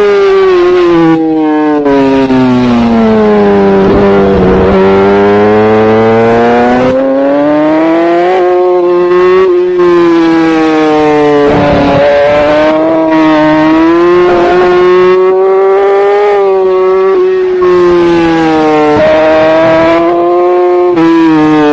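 Racing superbike engine at full race pace, heard from a camera mounted on the bike with wind rushing over it. The engine note falls steadily to a low point about four seconds in as the bike slows for a corner, then climbs again with short breaks at the gear changes. It dips sharply around the middle, holds high, and falls away again near the end.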